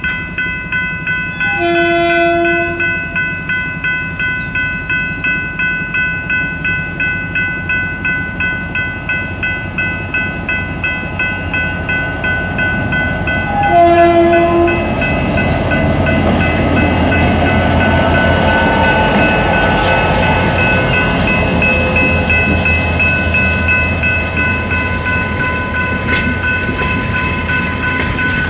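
A diesel locomotive sounds its horn twice, about two seconds in and again about fourteen seconds in. It then passes with its engine running low and its coaches' wheels clattering over the rails. A level-crossing warning bell rings about twice a second throughout.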